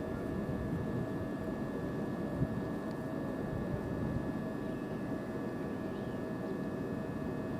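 Southeastern Class 395 high-speed electric train humming steadily, a few constant whining tones over a low rumble.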